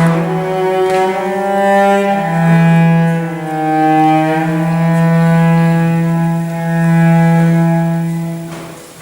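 Solo cello playing a slow melody of long held notes, dying away near the end.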